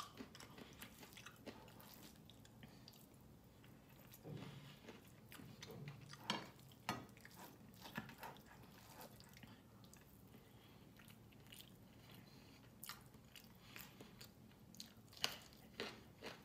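Quiet chewing and mouth sounds of a person eating chicken adobo and rice by hand, with scattered soft clicks.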